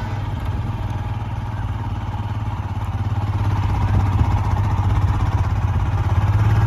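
Motorcycle engine running steadily while riding, with a strong low hum, getting louder through the second half.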